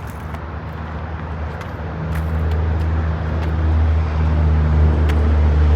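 A steady low engine hum that grows louder about two seconds in, with a few faint clicks over it.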